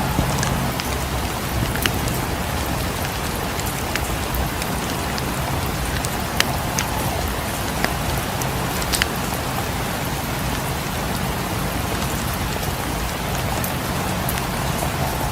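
Steady rain falling, with scattered sharp ticks through it.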